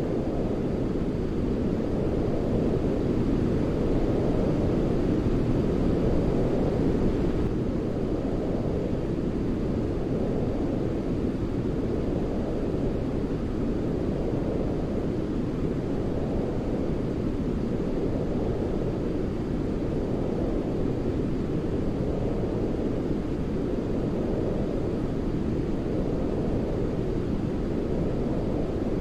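Continuous deep, steady rushing noise: a low-filtered, brown-noise style white-noise track for lulling a baby to sleep. It swells and ebbs gently about every two seconds.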